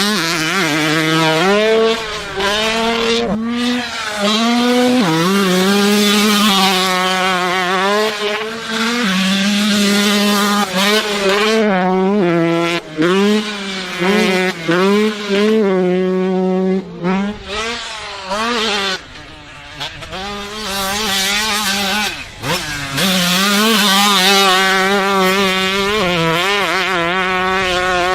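125cc two-stroke motocross bike engine revving hard, the pitch sweeping up and falling back over and over as the rider works the throttle through the gears. There are a few brief sudden drops where the throttle is chopped.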